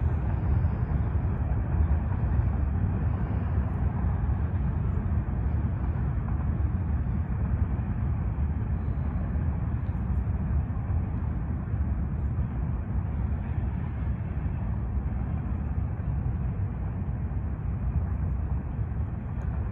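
Norfolk Southern mixed freight and intermodal train passing, its cars rolling by in a steady low rumble.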